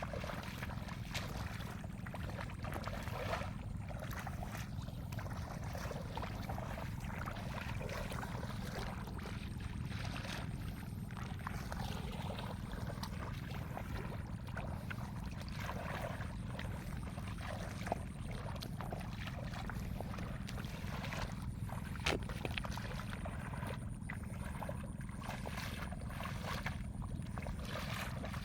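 Shallow water sloshing and splashing in irregular short strokes as hands and legs move through a flooded rice field, over a steady low rumble, with one sharp click a little past the middle.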